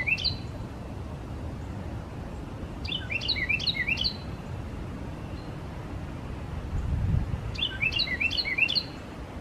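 Carolina wren singing: quick runs of repeated falling whistled notes, each burst about a second long, coming twice, four to five seconds apart.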